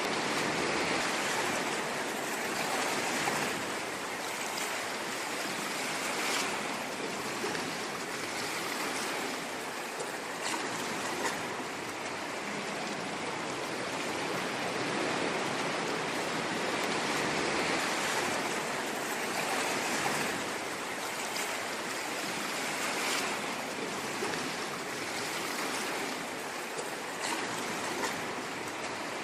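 Ocean waves washing on a shore, a continuous rushing wash with gentle, irregular swells in loudness.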